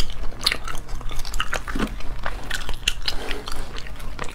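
Close-miked chewing and biting of braised squid: a quick, irregular run of wet mouth clicks and smacks.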